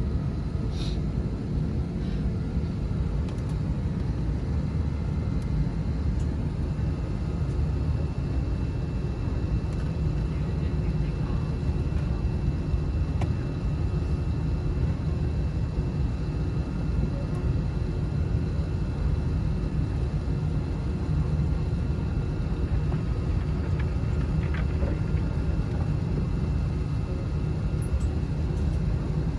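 Airliner cabin noise on the ground before takeoff: a steady low rumble from the jet engines running at idle, with a faint steady whine and a few small clicks.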